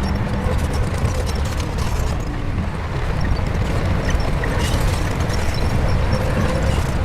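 Shantui bulldozer's diesel engine running steadily under work, a deep continuous drone with faint scattered clinks.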